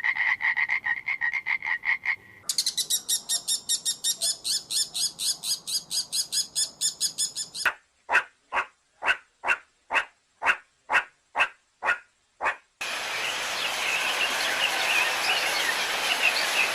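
A series of short animal-call recordings cut together. First a fast, even run of calls about five a second; then a quicker high chirring; then separate chirps about two a second; and from about two-thirds of the way in, a dense high chorus of chirps.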